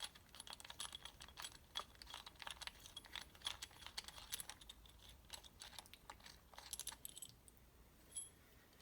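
Light, irregular metallic clicks and clinks of small engine parts being handled, as a connecting rod cap and its fasteners are taken off during piston installation. The clicks thin out near the end.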